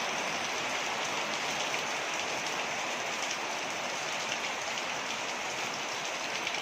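Waterfall: falling water rushing and splashing in a steady, even hiss.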